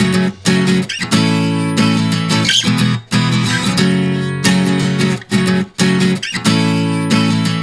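Music: strummed acoustic guitar chords, with brief breaks between strums.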